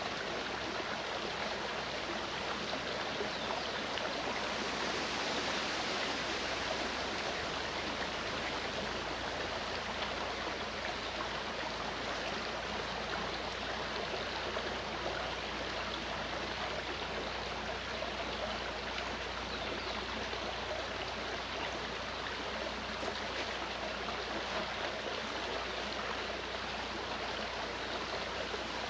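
Clear mountain stream flowing over rocks: a steady, even rush and babble of water.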